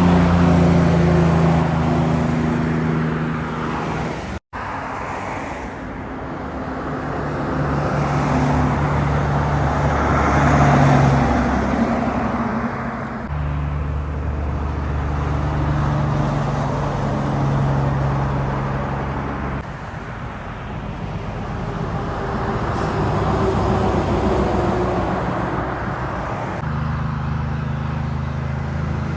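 Heavy trucks' engines running as they drive past, with road and tyre noise, in several short clips joined by abrupt cuts: about four seconds in, then roughly every six to nine seconds.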